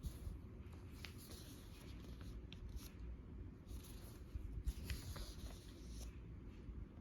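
Paper pages of a journal being turned and handled, with soft rustles and light clicks and taps.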